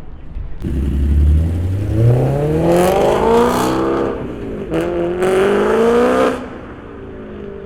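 A car engine accelerating hard, its pitch climbing steadily, with a brief break around four and a half seconds in, like a gear change. It then climbs again and lets off a little past six seconds, dropping to a lower, steady running sound.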